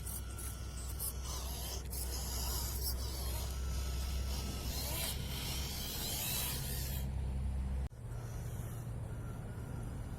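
Small radio-controlled truck's electric motor and gears running as its tyres churn through sand, with a hissing spray of sand that stops about seven seconds in. The sound cuts out briefly near eight seconds, then the motor hum carries on.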